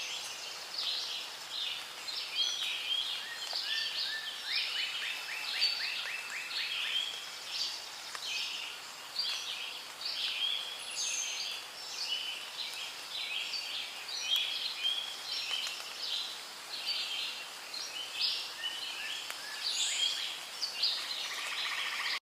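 Rainforest ambience: many birds chirping and calling over a steady background hiss, with a quick run of evenly spaced notes a few seconds in. The sound cuts off suddenly right at the end.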